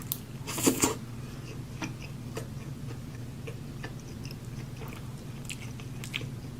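Close-miked mukbang eating: a loud crunching bite just after half a second in, then scattered small wet clicks of chewing over a steady low hum.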